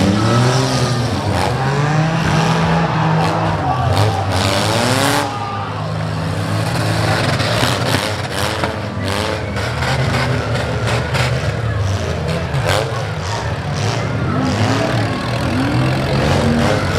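Six-cylinder demolition derby cars revving hard, their engine pitch repeatedly rising and falling, with scattered sharp knocks of car hits.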